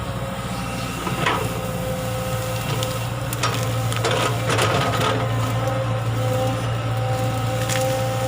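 Excavator engine running steadily with a held tone. Over it come bouts of crunching and scraping from the bucket working earth and stone, loudest around the middle.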